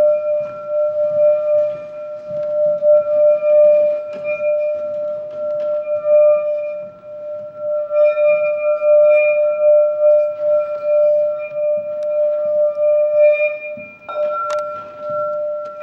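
A metal singing bowl ringing one steady tone with its higher overtones, swelling and fading in loudness. Near the end a sharp knock, after which a higher overtone rings louder.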